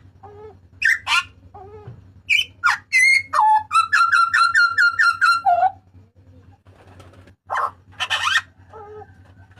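Butcherbird (jagal papua) giving loud calls: separate whistled and harsh notes, then a fast run of about a dozen repeated notes in the middle, and more harsh calls near the end. A faint steady hum lies underneath.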